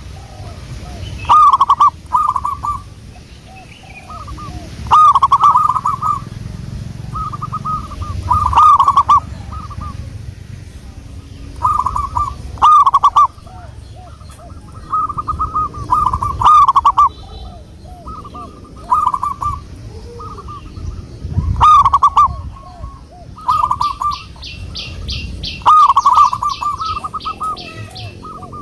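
Zebra dove (perkutut) cooing: short bubbling phrases of soft, high coos repeated every second or two. About two-thirds of the way through, a quick run of higher ticking notes joins in for a few seconds.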